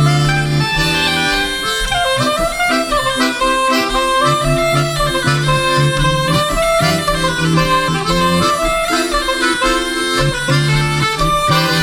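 Balfolk band playing a chapelloise dance tune live: reedy melody instruments over a steady, repeating bass line.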